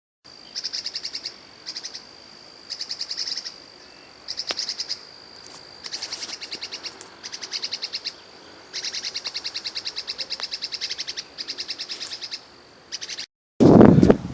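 A songbird singing repeated bursts of rapid, high trilled notes, some short and some long runs, over a steady high thin tone. Near the end the sound cuts off and gives way to loud wind buffeting the microphone.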